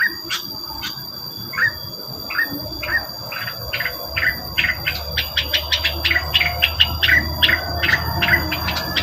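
Rengganis bird lure call: a series of short, sharp chirps, each falling slightly in pitch, a few at first and then coming quickly, several a second, from about four seconds in. A steady high-pitched ring, like insects, runs underneath.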